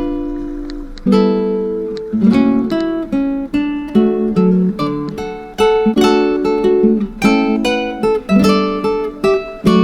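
Acoustic guitar music: plucked notes and strummed chords, each attack fading away before the next.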